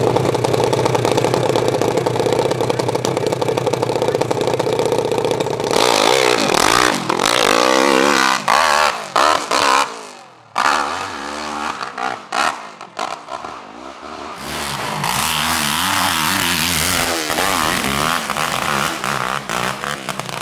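Hill-climb motorcycle engine held at a steady pitch at the start line, then launched about six seconds in: it revs hard up the hill, the pitch surging and dropping over and over, with a brief drop in loudness about ten seconds in.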